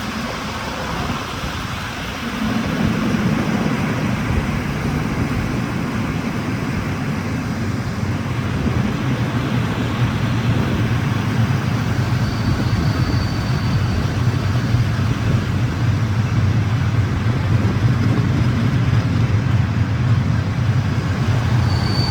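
Train pulling into a station: a steady rumble with a low hum that grows louder, and a brief high wheel squeal about halfway through and again at the very end.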